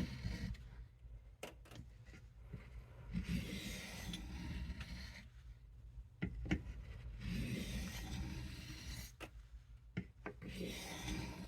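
Case USMC knife blade drawn across a soft Arkansas sharpening stone in slow strokes: a rasping hiss lasting about two seconds, repeated about every four seconds, with a few light clicks in between.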